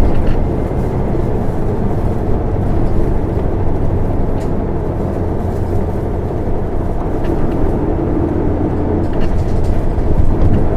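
Isuzu Erga city bus heard from inside the cabin, its diesel engine and road noise running steadily as it drives. The engine note shifts somewhat partway through.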